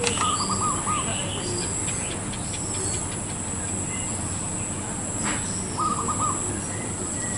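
Zebra dove cooing twice: a short run of rolling notes near the start and again about six seconds in. Other small birds chirp higher up, over a steady high-pitched whine.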